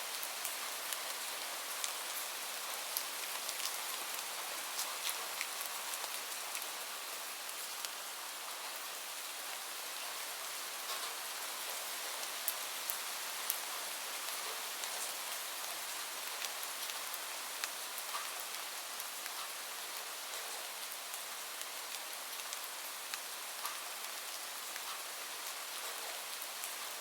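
Steady rain with a crackling wood fire: an even hiss of rain with scattered sharp pops and clicks.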